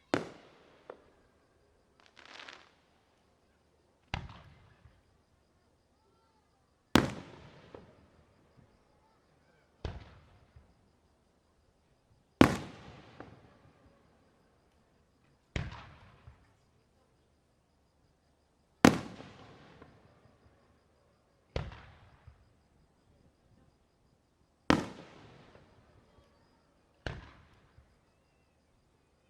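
Aerial firework shells bursting one after another, about a dozen sharp booms a couple of seconds apart, each trailing off in a long echo.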